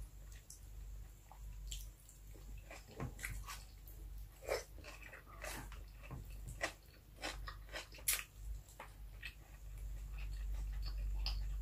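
Close-mic chewing of a mouthful of rice and fried milkfish, with wet smacks and clicks of the mouth at irregular intervals, over a steady low hum.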